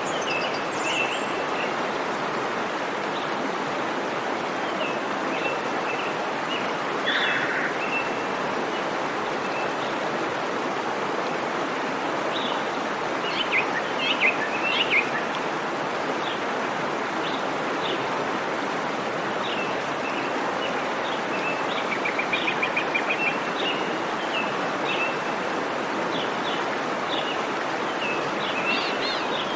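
Steady rush of a waterfall's falling water, with birds chirping over it in short calls throughout and a quick run of chirps about three quarters of the way through.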